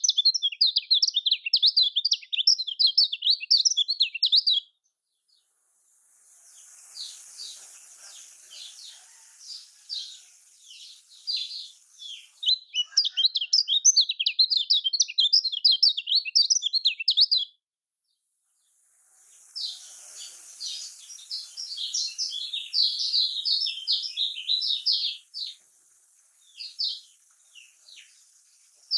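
Kecial kuning white-eye singing a rapid, high-pitched twittering chatter, in two loud runs of about five seconds each. Between and after the loud runs, fainter song of the same kind sits over a steady hiss.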